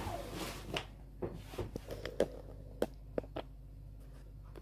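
Handling noise as a fridge freezer is shifted back into position: a short scuffing sound in the first second, then a few separate light knocks and clicks.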